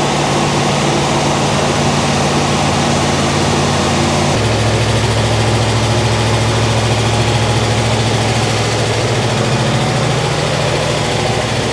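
Freshly rebuilt 396 big-block Chevy V8 in a 1967 Chevelle idling steadily on its first run-up. The idle note shifts abruptly about four seconds in and then holds steady.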